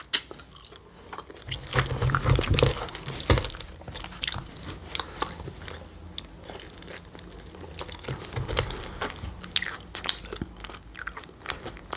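A person chewing and biting into a cream-filled pastry close to the microphone: irregular small mouth clicks and smacks, busiest about two to three seconds in.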